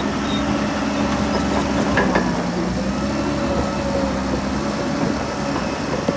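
Heavy diesel engine of earthmoving machinery running steadily, with a sharp knock about two seconds in and another near the end.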